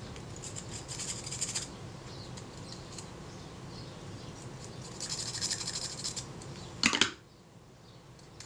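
Aperture diaphragm ring of a Kodak Retina IIIc being worked back and forth, freshly dusted with graphite powder to free its stiff movement: two spells of dry metal-on-metal scraping and rubbing. A sharp clack comes about seven seconds in.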